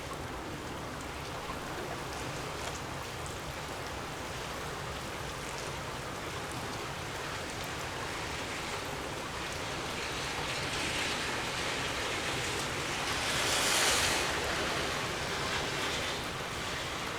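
Gusty wind rushing steadily, swelling into a stronger gust about thirteen to fourteen seconds in and then easing.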